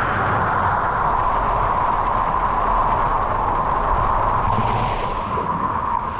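Waterfall pouring: a steady rush of falling water that eases slightly near the end.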